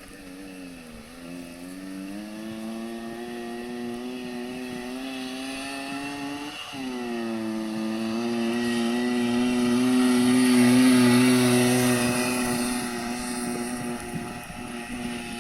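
KTM SM 25 moped's Sachs 50/3 single-cylinder two-stroke engine pulling hard. Its pitch climbs, drops abruptly about seven seconds in as it shifts up a gear, then climbs again. It grows louder to a peak about two-thirds through and fades near the end.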